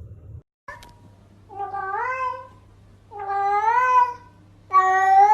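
A cat meowing three times in long, drawn-out meows of about a second each. Each meow rises and then falls in pitch and is louder than the one before, over a faint steady low hum.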